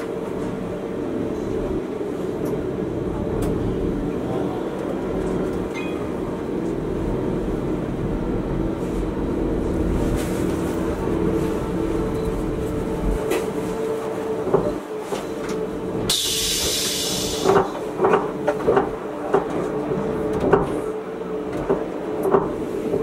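Electric rack-railway train of the Gornergrat Bahn running slowly, with a steady hum and pitched whine from its drive. About two-thirds of the way in there is a brief hiss lasting a second or so, followed by a run of sharp clacks from the wheels on the track.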